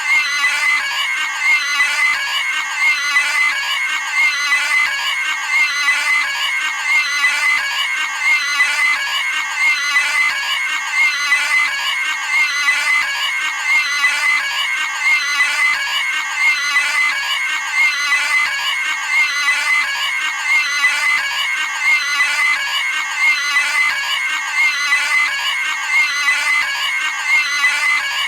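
A cartoon pig's squealing scream, repeated over and over without a break, about one scream every second and a half.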